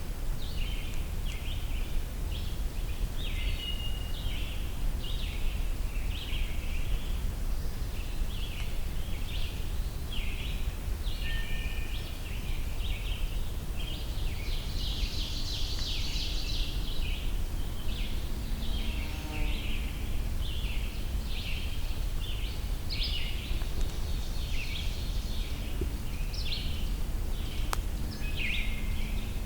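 Woodland birdsong in which a scarlet tanager sings its hoarse, 'sore throatish' burry phrases from the canopy, over and over, mixed in with other songbirds. A steady low rumble sits underneath.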